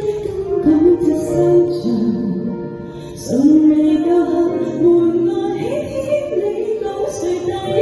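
A woman singing a slow Cantonese pop song over instrumental accompaniment, her melody holding long notes with a short lull about three seconds in.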